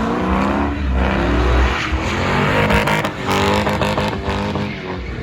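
A vehicle engine revving hard, its pitch rising and falling several times.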